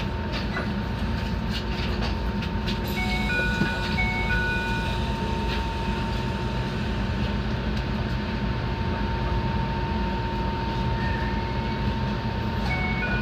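Enoden electric train running along the track, heard from the front of the car: a steady motor and wheel rumble with a constant hum, and a few sharp clicks from the rails in the first few seconds. Short electronic two-note tones sound twice, a few seconds in and again near the end.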